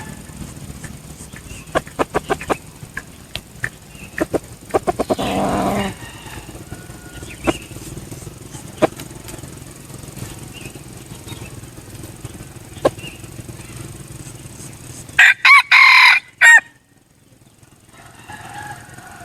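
Red junglefowl rooster crowing once, a short loud crow about two-thirds of the way through that ends abruptly. Scattered sharp clicks and a brief rustle come earlier, and faint calls follow near the end.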